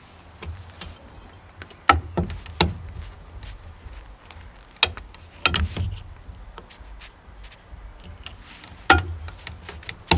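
Hand tools working on car body parts: irregular sharp clicks and metallic knocks, with louder clanks about two, five and nine seconds in.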